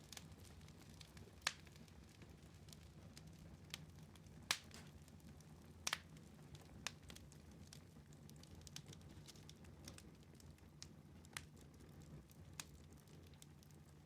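Wood fire in a fireplace crackling faintly, with irregular sharp pops every second or two over a low steady rumble.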